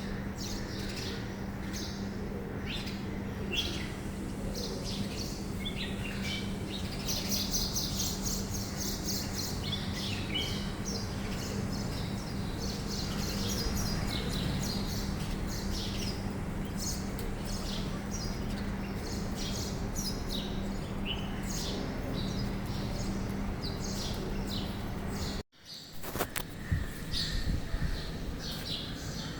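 Forest ambience with many birds chirping in short, overlapping calls over a steady low hum. The sound drops out for a moment about 25 seconds in, then comes back less even.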